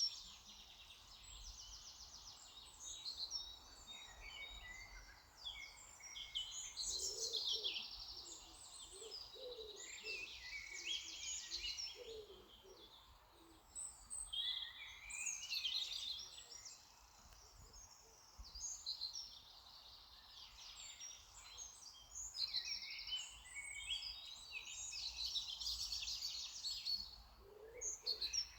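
Garden birds singing: repeated high chirping and trilling phrases, with a few short lower notes now and then.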